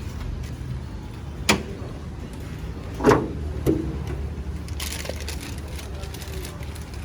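A sharp click, then two duller knocks about a second and a half later, from handling the Honda CR-V's engine-oil dipstick in the engine bay, over a steady low rumble.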